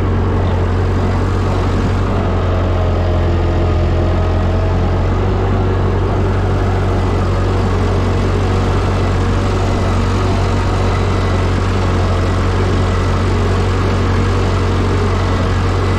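Ford 9N or 2N tractor's four-cylinder flathead engine running steadily at a constant speed, a low, even drone.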